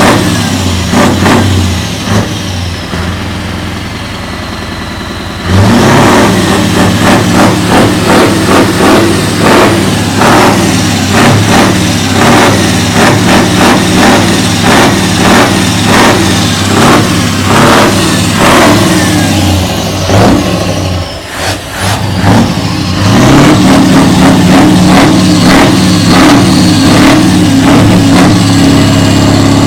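Straight-piped Scania truck engine running loud under full throttle, its exhaust note pulsing. It eases off for a few seconds near the start, dips briefly about two-thirds of the way through, then pulls again, rising in pitch.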